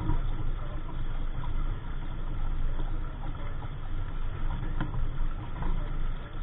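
Steady low wind rumble buffeting the microphone on a small sailboat under way, with a faint tick near the end.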